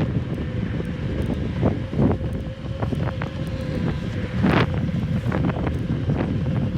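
Wind rumbling on the microphone of a rider moving on an electric unicycle, with scattered short knocks and a faint steady tone underneath.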